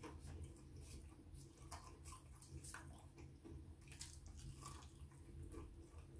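Faint close-up chewing and biting of fried chicken pieces, with many small, irregular crunches and wet mouth clicks.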